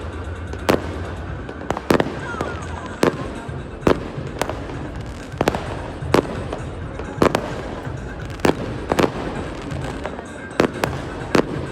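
Aerial fireworks going off: sharp bangs at irregular intervals, about one or two a second, over a continuous crackle.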